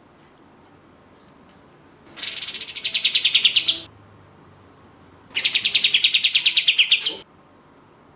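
A kapas tembak (katem), a songbird of the bulbul family, gives two rapid trills of repeated high notes. Each trill lasts just under two seconds, with a short pause between them, and the first falls in pitch partway through.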